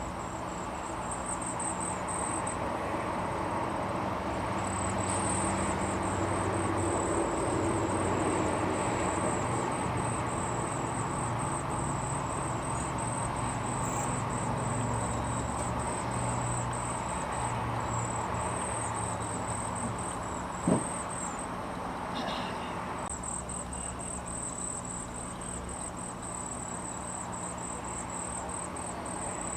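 Insects trilling steadily in a high, fast-pulsing chorus, over a low rumble like distant traffic that swells and fades through the middle. A single sharp knock comes about two-thirds of the way in.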